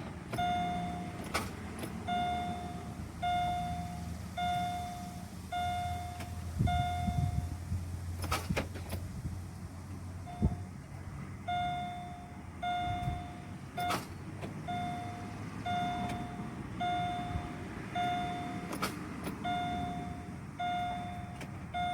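2006 Pontiac G6 dashboard warning chime beeping about once a second, stopping for a few seconds about a third of the way in and then resuming, with several sharp clicks as the key is turned. No cranking is heard: the starter gives only a single click, the no-crank fault persisting after a new starter and fresh battery.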